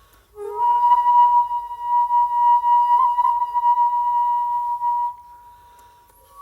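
Shakuhachi (end-blown bamboo flute) playing one long held note. It enters about half a second in with a short lower grace note, holds steady for about four and a half seconds, then breaks off into a short breath pause between phrases.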